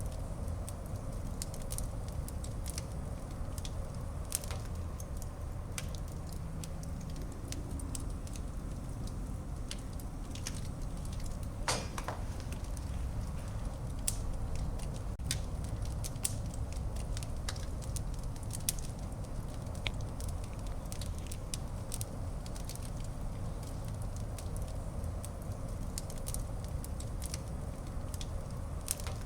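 Wood fire burning in a fireplace: irregular sharp crackles and pops over a steady low rumble of the flames, with one louder snap near the middle.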